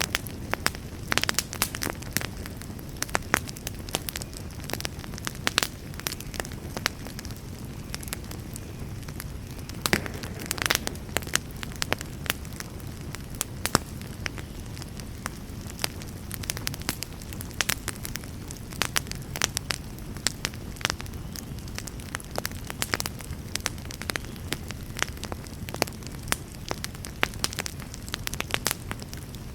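Wood fire burning with a steady low rumble, dotted throughout with irregular sharp crackles and pops, with a denser flurry of crackling about ten seconds in.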